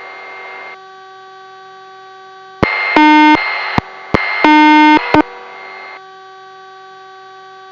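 Police radio channel keying: clicks and static hiss with two short electronic beeps about a second and a half apart, over a steady hum.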